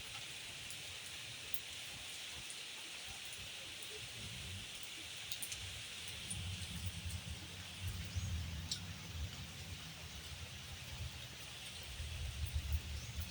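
Fine, light rain falling, a steady even hiss, with a low rumble that comes and goes underneath.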